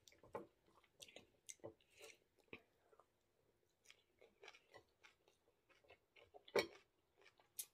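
Faint close-up chewing of a mouthful of rice and water spinach, with scattered small wet mouth clicks and smacks. A louder smack comes about six and a half seconds in.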